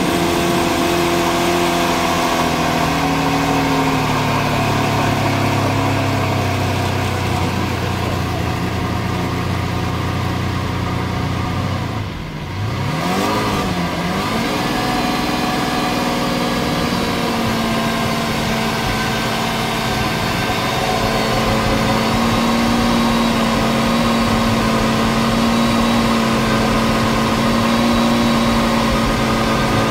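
Lamborghini Veneno's V12 engine running at idle, with a short rev about twelve seconds in, after which it settles to a steady, slightly higher-pitched idle.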